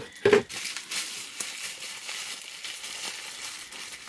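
A brief knock about a third of a second in, then packaging rustling and crinkling as a wrapped item is handled and unwrapped.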